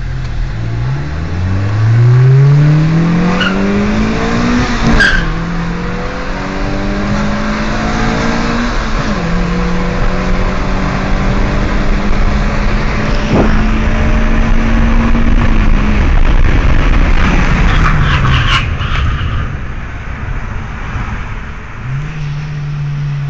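Nissan Primera's SR20 four-cylinder engine under hard acceleration from a standing start, heard from inside the cabin: the revs climb steeply, drop at gear changes about 5 and 9 seconds in, then hold steady at speed over road and wind noise before falling away as it eases off.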